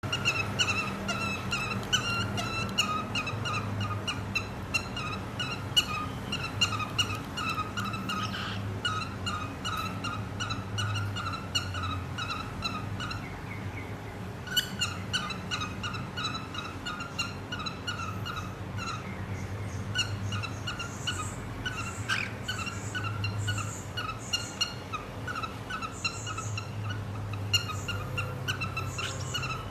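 Cockatiel singing and chattering: a fast run of short, repeated whistled notes, several a second, broken by a brief pause about halfway through.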